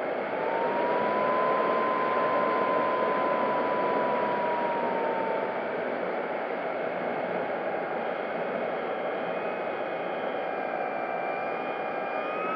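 Electric motor and propeller of an FMS P-40B Warhawk RC warbird whining in flight, with steady rushing air noise, heard from a camera on board the plane. The whine rises a little about half a second in and eases slightly lower around five to six seconds in as the throttle changes.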